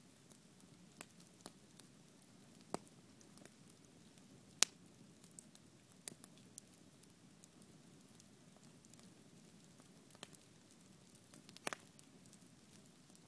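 Wood bonfire burning with a soft steady rush of flames and scattered sharp crackles and pops, one louder pop about four and a half seconds in.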